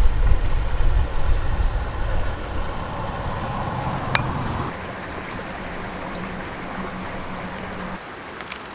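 Outdoor ambience: a steady rushing noise with a heavy low rumble for the first four or five seconds, then settling to a lighter, even rush.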